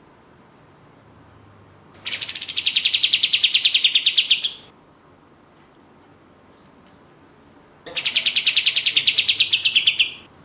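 Kapas tembak (katem) songbird giving two long, rapid, machine-gun-like trills. The call is a fast, even string of notes, about ten a second, that starts a little higher and settles to one pitch. It runs for about two and a half seconds and is repeated about six seconds later.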